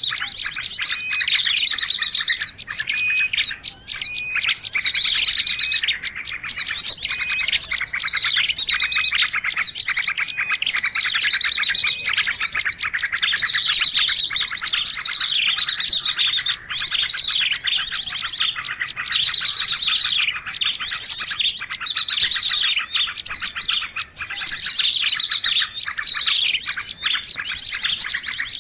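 Dense chorus of many small birds chirping and trilling at once, high overlapping calls with no pause: a bird-lure (pikat) recording used to draw in small birds.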